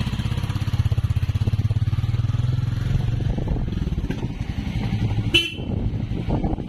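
Single-cylinder motorcycle engine running with a fast pulsing note as the bike sets off; the note is strongest for the first three seconds, then mixes with road and wind noise. A short horn beep sounds about five seconds in.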